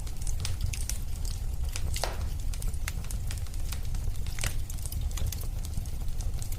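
Wood fire in a fireplace crackling and popping irregularly over a low steady rumble, with one louder pop about two seconds in.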